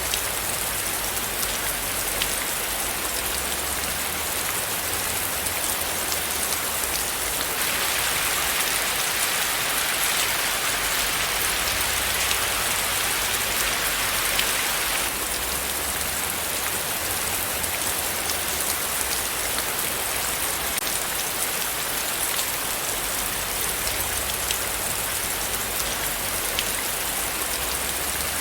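Steady rain falling on a surface: a dense patter of separate drops over an even hiss. It grows a little louder and brighter from about a quarter of the way in until just past halfway.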